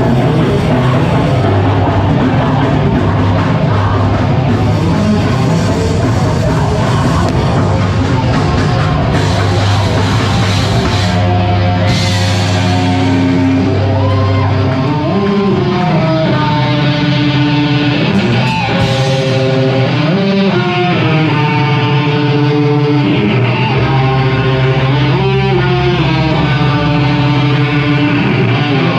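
Live rock band playing loudly: guitars, bass and drums, with a bending melodic line coming in about halfway through.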